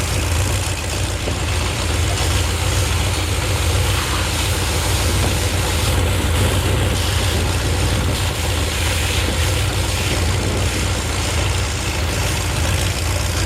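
Heavy truck engine running steadily with a strong low hum, under a continuous hiss of spraying water.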